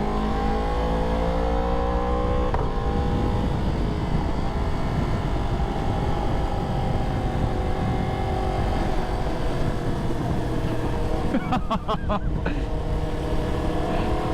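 Yamaha R1 inline-four engine heard from the rider's seat, rising in pitch as it pulls through a gear, then a gear change about two and a half seconds in, after which it runs more steadily under wind rush. A quick series of sharp clicks comes near the end.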